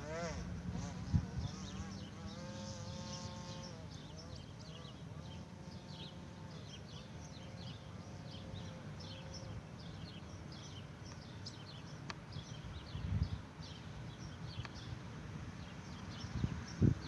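Open-air field ambience: low wind rumble on the microphone with birds or insects chirping. A faint motor hum wavers in pitch through the first half, then fades out.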